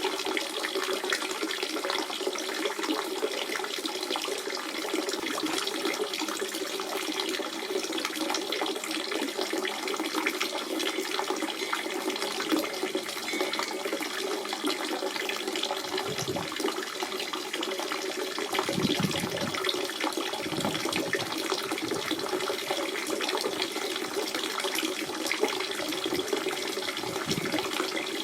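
Spring water running and splashing steadily, a continuous trickling wash with a few brief deeper gurgles in the second half.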